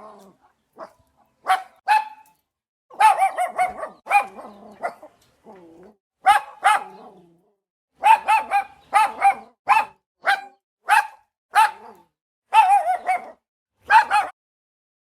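A dog barking over and over: short, sharp, fairly high-pitched barks, some single and some in quick runs of three to five, with short pauses between.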